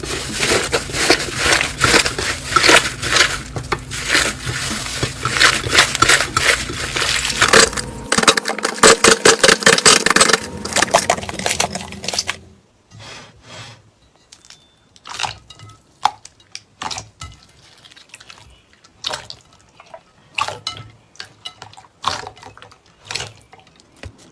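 Slime being squeezed and pressed by hand, with loud, dense crackling clicks. About halfway through it cuts to a quieter clip of scattered clicks and pops.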